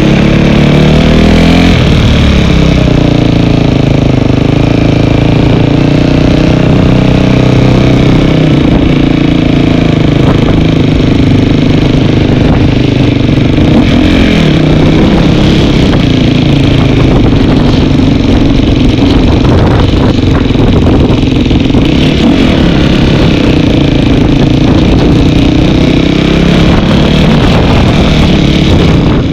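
Dirt bike engine running loud while being ridden, its pitch dropping off about a second in and again around fourteen seconds, then climbing again as the throttle opens.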